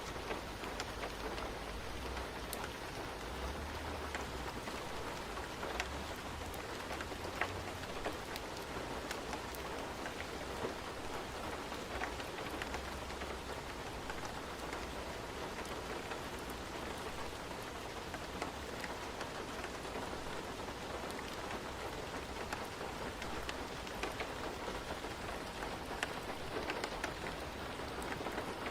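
Steady rain falling, with scattered sharp ticks and a low rumble that comes and goes.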